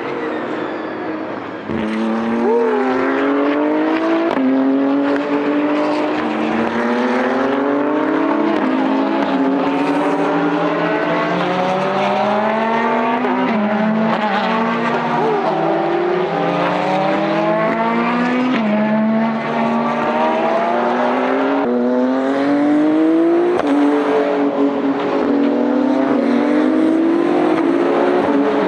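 A pack of race cars at full throttle on a road course, several engines overlapping. Each one climbs in pitch and drops back at an upshift, every second or two, so the sound keeps rising and resetting throughout.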